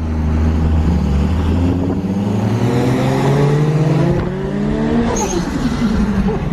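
Car engine accelerating hard, its pitch climbing steadily for about five seconds, then falling away near the end.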